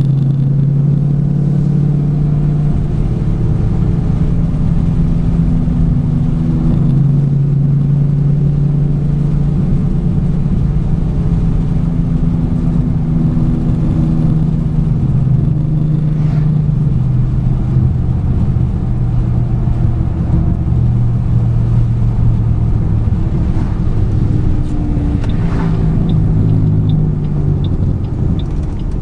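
2008 Ford Mustang GT's 4.6 L three-valve V8 running while the car is driven, its pitch rising and falling as it goes. The engine has five failing coil packs that the dealer found, and is misfiring.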